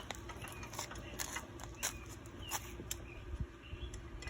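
Scattered light clicks and taps of hands working at the ATV, over a steady low background hum, with a few faint high chirps.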